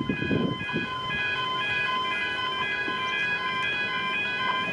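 Railway level crossing warning bells ringing steadily, a rapid repeating metallic ring that signals a train is approaching and the boom gates are down.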